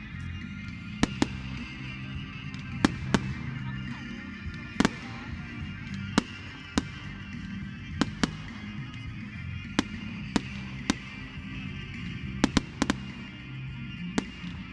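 Distant fireworks and firecrackers going off: more than a dozen sharp bangs at irregular intervals, some in quick pairs, over a steady background hum.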